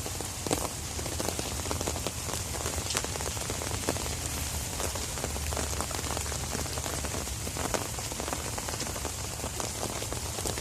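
Steady rain falling, with many single drops tapping close by.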